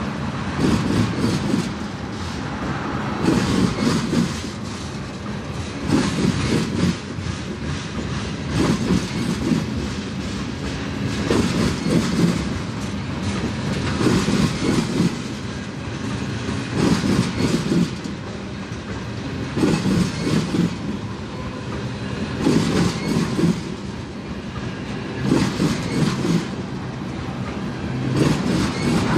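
Freight train cars rolling past, steel wheels clacking over the rails, with a surge of clatter about every three seconds as each car's wheel sets go by.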